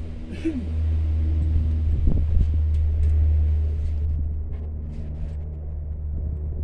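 A steady low rumble with a droning, motor-like hum over it, and a few sharp knocks about two seconds in.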